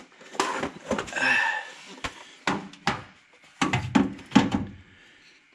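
Irregular knocks, clicks and rustling from hands handling tools and parts up under a truck, with the loudest knocks about two thirds of the way in.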